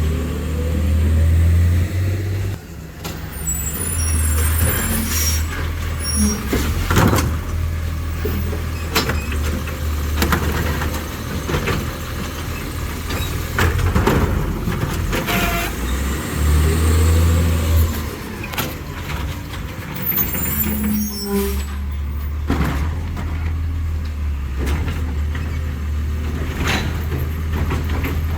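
Autocar ACX New Way Sidewinder side-loading garbage truck working bins: the diesel engine runs steadily and revs up twice, with repeated knocks and bangs from the arm handling the cans and short hisses of air.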